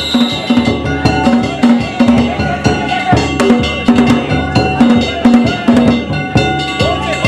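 Danjiri festival music (danjiri-bayashi): a taiko drum beating a steady rhythm, about two beats a second, with clanging metal hand gongs (kane) struck rapidly over it.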